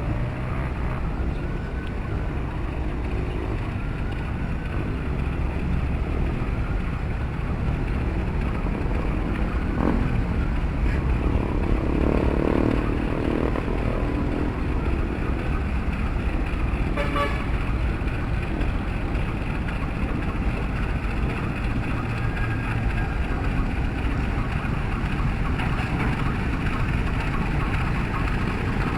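Passenger train running along the track: a steady, continuous rumble of the carriages in motion, swelling louder about twelve seconds in.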